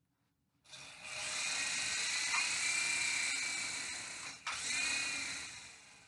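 Small RC helicopter's electric motor and rotor whirring with a high whine that starts under a second in. It cuts out for an instant about two-thirds of the way through, then winds down near the end as the battery runs flat.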